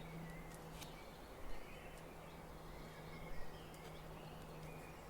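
Origami paper being handled and creased, giving a few short, faint crackles over a steady low hum.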